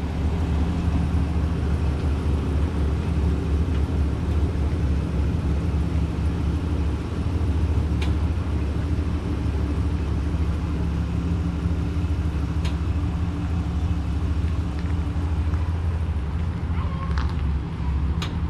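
Pickup truck engine running steadily at low speed while towing a fifth-wheel trailer, a low even hum with a few short clicks scattered through it.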